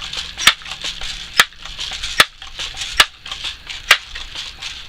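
Crosman 760 Pumpmaster air gun being pumped: the forend pump lever is worked in steady strokes a little under a second apart, each ending in a sharp click, five strokes here, building air pressure for the shot.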